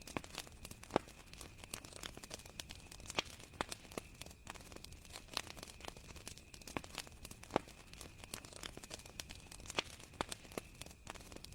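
Wood campfire crackling: irregular sharp pops and snaps of burning wood, some louder than others, over a soft steady hiss.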